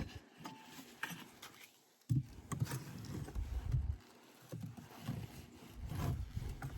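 Irregular knocks, bumps and scraping from wooden hive frames being handled and lifted out of the hive box.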